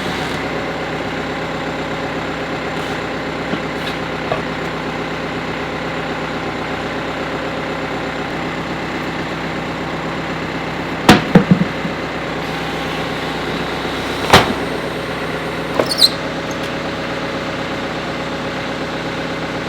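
Caterpillar 430D backhoe's diesel engine running steadily while it is used to break the bead of a deflated tire, with a quick cluster of sharp metallic clanks just past the middle and two more single clanks a few seconds later.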